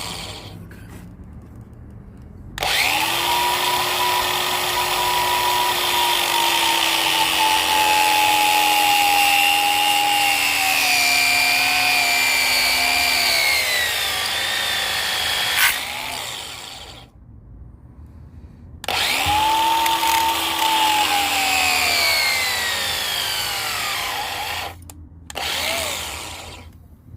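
Power drill running in three goes, a long run of about thirteen seconds, a second of about six, and a short burst near the end, its pitch slowly sagging under load as it works out the old rubber piece of a motorcycle rear shock mount.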